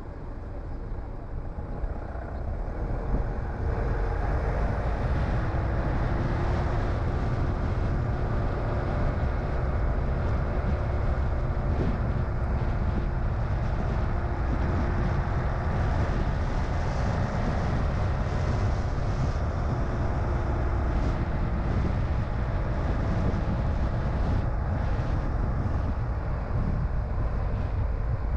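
A car on the move: steady low rumble of engine and tyres on the road, with a faint engine hum that drifts slowly in pitch. It grows louder about three to four seconds in as the car picks up speed, then holds even.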